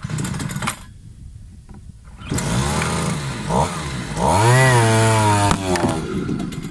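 Small 40 mm bore two-stroke brush-cutter engine driving a long-tail boat propeller, throttled up about two seconds in and running hard with its pitch swinging up and down before easing off near the end.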